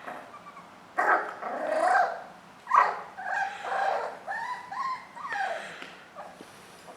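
Jack Russell terrier puppy making play noises: a run of short growls and yips starting about a second in and dying away near the end.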